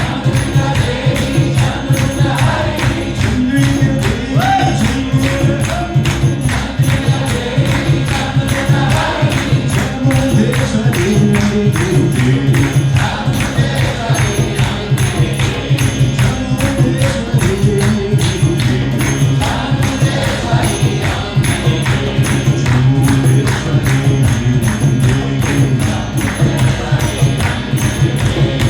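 Kirtan chanting: voices singing a devotional mantra over a steady low drone, with a quick, even beat of jingling hand percussion.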